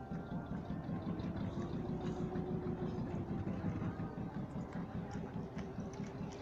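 An engine running steadily, with a rapid, even chugging pulse.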